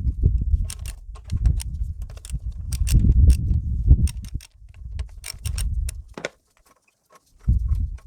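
Metal tools and fasteners clinking and rattling in scattered sharp clicks during hands-on work removing a car's thermostat housing, over an irregular low rumble. Everything drops out briefly about three-quarters of the way through.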